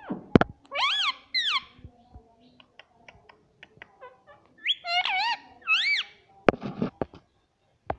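Pet parrot calling: two bursts of shrill squawks, about a second in and again around five seconds in, with small clicks and taps between and a heavier knock near the end.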